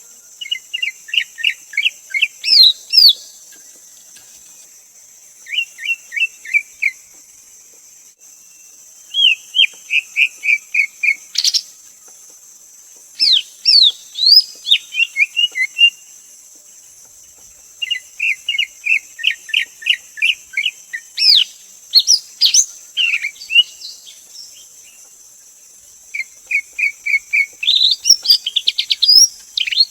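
Greater green leafbird singing: six phrases of quick repeated notes mixed with sharp rising and falling whistles, each a couple of seconds long with short pauses between, over a steady high insect drone.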